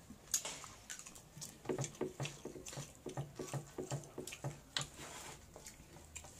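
Close-miked chewing and lip-smacking of people eating with their hands: a quick run of short wet clicks, about three a second, from about one and a half to five seconds in.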